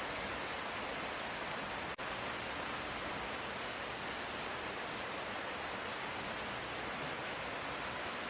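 Steady hiss of light rain, even and unbroken, with a momentary dropout about two seconds in.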